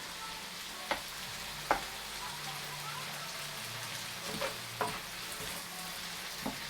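Chicken sizzling as it fries in oil in a pan, a steady hiss, with the stirring utensil knocking against the pan about five times.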